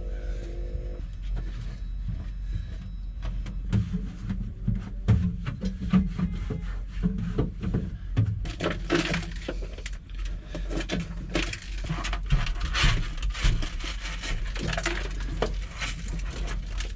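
Small pieces of broken window glass clicking and crunching irregularly as they are cleaned off a cab floor, over a steady low hum.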